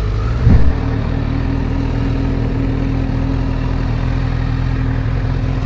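Vehicle engine idling steadily, with a short loud low thump about half a second in.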